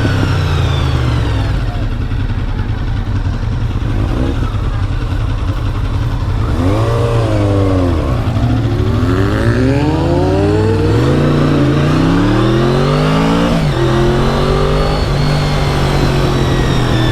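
Honda VFR750's V4 engine running while riding, with the revs climbing and dropping back several times in the middle.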